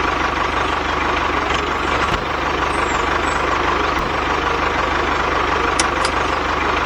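Small engine of a DIY mini tractor running steadily, with a rapid, even low pulsing, and a couple of light clicks near the end.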